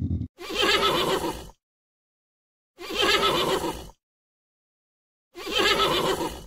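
Horse whinnying three times, each call about a second long, with silence between.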